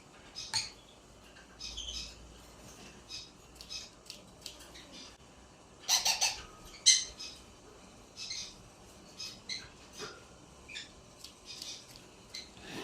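Ringneck parrot making short, scattered high-pitched chirps and squawks, with a louder burst of squawks about six seconds in and another a second later.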